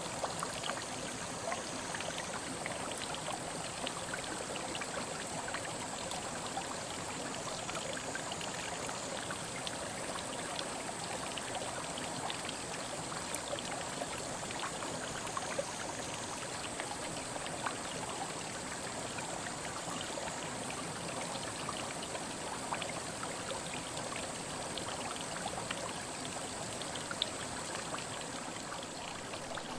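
Small mountain headwater stream running over rocks: a steady rush of water dotted with many small splashes and drips.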